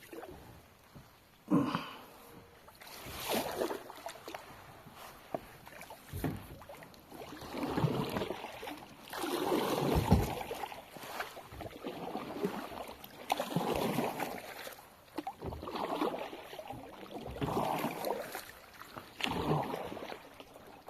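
Kayak paddle strokes in water, a rhythmic swish and splash of the blades about every two seconds as the kayak is paddled along.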